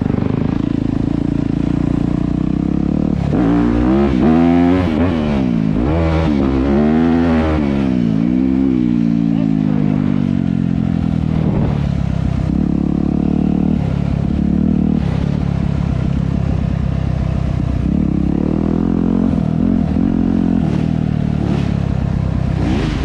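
Dirt bike engine running while riding. It revs up and down repeatedly a few seconds in, then holds steadier with brief dips in throttle.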